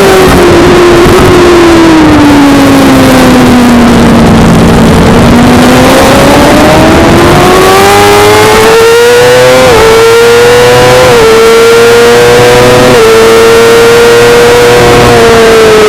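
Suzuki GSX-R600 inline-four engine at racing revs: the revs fall steadily for about five seconds as the bike slows, then climb hard with three quick upshifts around the middle before holding high, over steady wind rush.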